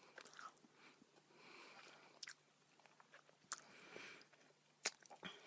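Faint chewing and mouth sounds of a person eating, with a few small sharp clicks.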